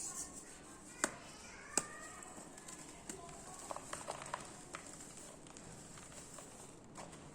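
Dry pure cement balls cracking and crumbling between the fingers: a few separate sharp cracks, with a quick run of small crackles about halfway through.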